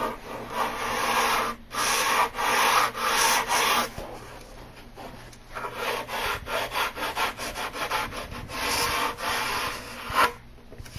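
Sandpaper on a hard wooden block being rubbed by hand along a rough particleboard edge, grinding off torn particleboard and old edge-band glue. Long back-and-forth strokes for the first few seconds, then quicker, shorter strokes, stopping near the end.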